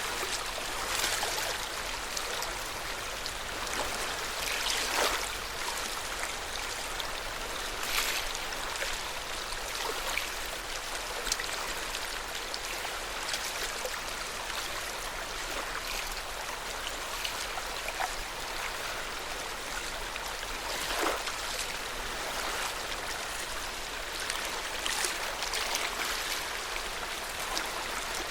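Lake Yamanaka's water lapping, a steady wash broken by frequent small, irregular splashes.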